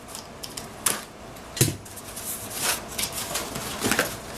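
Cardboard and plastic packaging being handled: irregular rustles and clicks, with a louder knock about one and a half seconds in.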